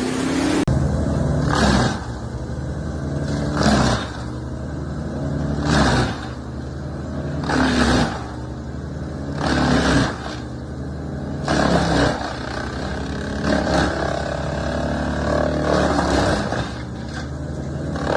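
Engine-driven circular-saw log-cutting machine running steadily, with a loud burst of cutting noise about every two seconds as the blade goes through logs.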